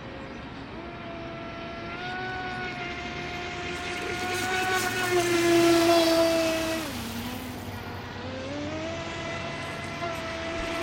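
HK Pursuit RC speed boat's ADS500M water-cooled electric motor running on the water, a steady whine with many overtones. The pitch steps up about a second in and holds, the sound is loudest near the middle, then the pitch drops sharply about seven seconds in as the throttle eases and climbs again.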